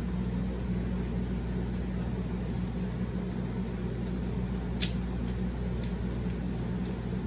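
Steady low background hum, like a fan or appliance running, with a few faint short clicks a little past halfway.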